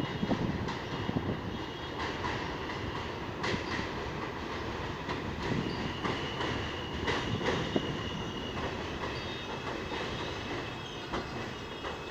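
R160A subway train moving on the rails, with a steady rumble and repeated clacks of the wheels over the track. A thin, high wheel squeal comes in about halfway through and lasts a couple of seconds.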